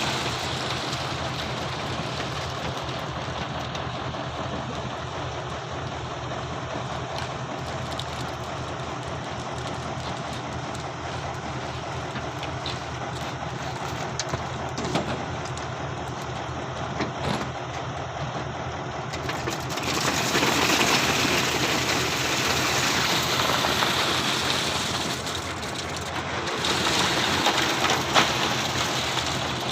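A truck engine running steadily, with a hiss over it that grows louder about twenty seconds in.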